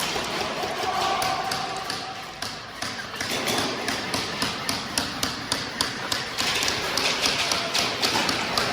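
A run of sharp taps and clacks, about two to three a second, growing denser after about three seconds, over a steady background hubbub.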